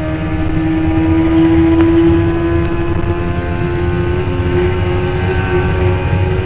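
Stock 2008 Kawasaki ZX-10R's inline-four engine at high revs in top gear, its pitch creeping slowly upward as the bike keeps accelerating at about 250 km/h. Heavy wind rush on the microphone rumbles underneath.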